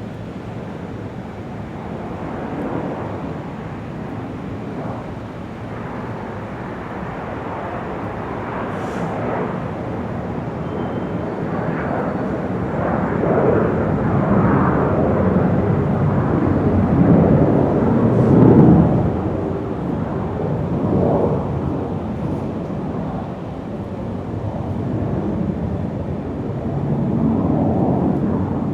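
Large airport ambience: a dense, steady wash of rumbling background noise that swells louder about two-thirds of the way through, with a faint click now and then.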